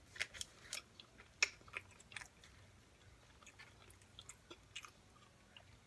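A person chewing food close to the microphone: scattered soft mouth clicks and smacks, busiest in the first couple of seconds, then sparser.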